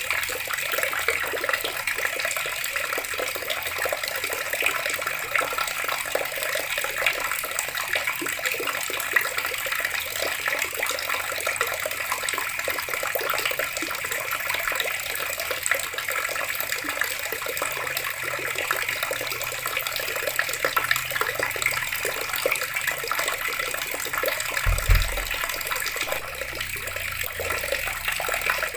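Water running steadily from a tap and splashing. A brief low thump comes near the end.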